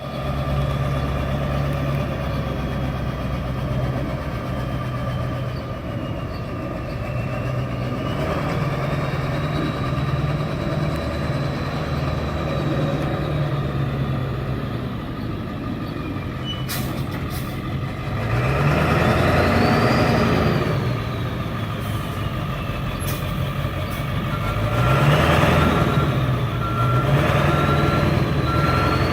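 International 4700 truck engine running at idle, revved up and back down twice, once about two-thirds through and again near the end. A truck's reversing beeper starts its steady beeping in the last few seconds.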